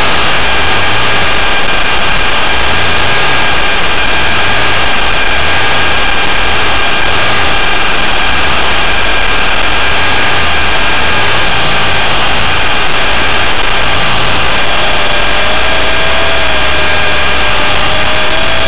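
WLtoys V913 RC helicopter's electric motor and rotor running: a loud, steady high whine over a dense rush of rotor noise, picked up close by a camera on the helicopter itself. About 15 s in, a lower wavering tone joins.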